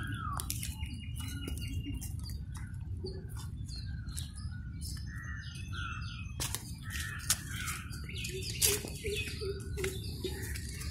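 Several birds chirping and calling in short repeated notes, over a steady low rumble, with a couple of sharp clicks in the second half.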